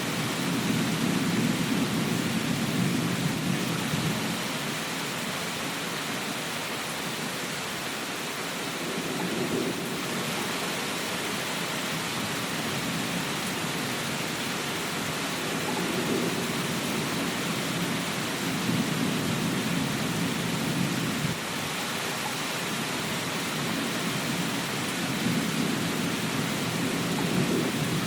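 Steady rain hiss with low rumbles that swell and fade several times, roughly every few seconds.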